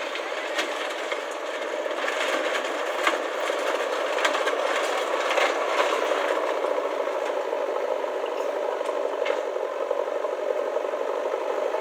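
A steady mechanical rattling noise with scattered clicks and knocks through it.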